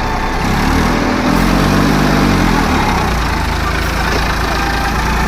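Massey Ferguson 1035 DI tractor's diesel engine running steadily and loud. Its pitch rises and then falls back between about one and three seconds in.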